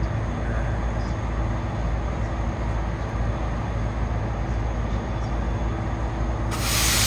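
Just-arrived diesel passenger train standing at the platform, its engine running steadily with a low drone. Near the end there is a loud hiss lasting about a second.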